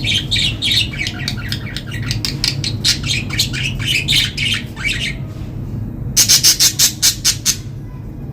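Budgerigars chirping in a fast, dense stream of short calls. After a brief pause about six seconds in comes a quick run of about eight sharp, loud squawks.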